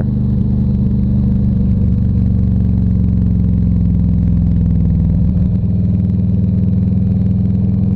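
Harley-Davidson Ultra Classic Electric Glide's big-twin V-twin engine running steadily while riding, heard from the saddle. Its pitch shifts about five seconds in as the revs change.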